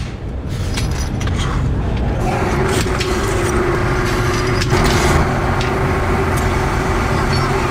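Workshop machinery running with a dense low rumble; a steady hum sets in about two seconds in, with scattered clicks and knocks of work going on.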